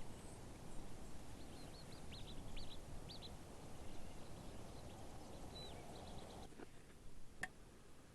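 Mountain outdoor ambience: a steady low rushing background with scattered short bird chirps, then an abrupt change to a quieter background about six seconds in, with a single sharp click near the end.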